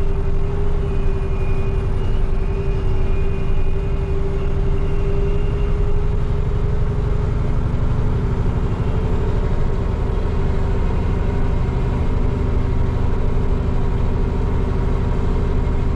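Dump truck's diesel engine running steadily, heard from inside the cab as a low, even drone with a faint steady hum over it.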